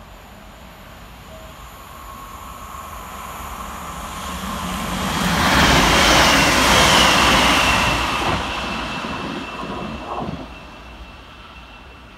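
Northern Class 323 electric multiple unit passing through the station. Its rail and wheel noise grows as it approaches, is loudest about six seconds in as the carriages go by, then fades away. A steady high whine runs while it passes.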